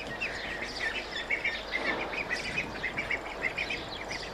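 Small birds chirping busily, a quick run of short high chirps several times a second, over a faint steady background hiss.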